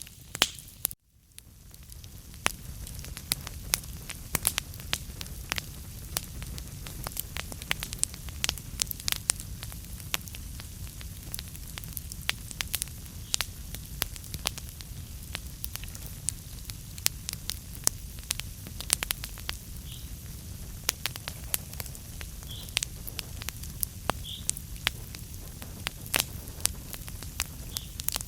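Wood fire burning in a fireplace: logs crackling and popping continually over a low rumble of flame. The sound drops out almost completely for about a second near the start.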